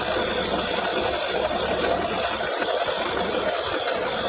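Volkswagen 1.4 TSI supercharged and turbocharged engine running steadily. Its coolant pump is mechanically faulty: the pump bearing has failed and rubs against the supercharger clutch disc.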